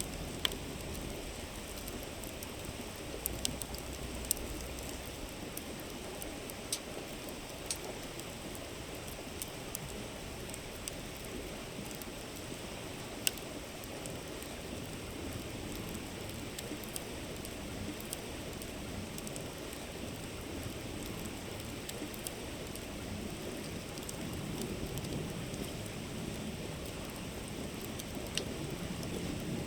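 River flowing in a steady rush, with a wood campfire crackling over it in scattered sharp pops, the sharpest about halfway through.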